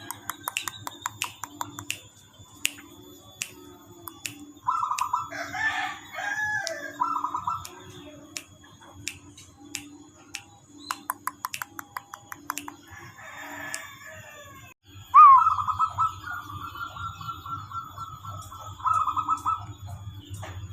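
Zebra doves (perkutut) calling in repeated trilled cooing phrases, with a rooster crowing among them. One long trilled phrase starts sharply about three-quarters of the way through and runs for about five seconds.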